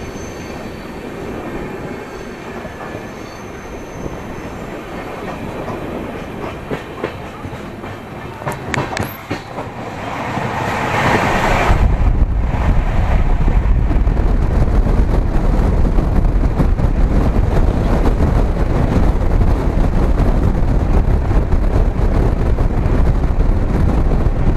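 Express train running on the rails, heard from an open coach door, with wheels clattering. About a third of the way through it becomes much louder and heavier, with a deep rush of air and rumble as the train picks up speed.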